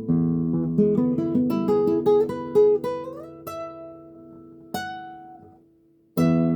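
Guitar played as a short plucked passage: a chord, then a quick run of single notes climbing in pitch, a note slid upward about three seconds in and left to ring. One more note is plucked, the sound dies away almost to silence, and a new chord is struck near the end.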